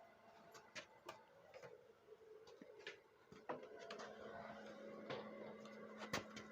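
Faint scattered clicks and light taps of metal parts and tools being handled while fitting a recoil pull starter to a snow blower, with a low steady hum coming in about halfway through.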